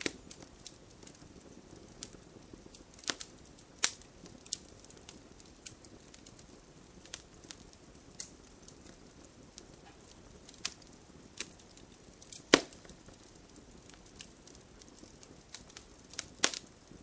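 Wood fire in a fireplace crackling, with a low steady hiss and sharp pops at irregular moments. The loudest pop comes about twelve seconds in.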